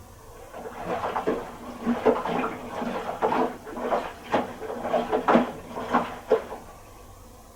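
Miele Little Giant PWM 507 commercial washing machine drum turning briefly during the saturation stage of a woollens wash: the wet load and water slosh and slap inside the drum in an irregular run of splashes and knocks, then the drum stops about a second before the end.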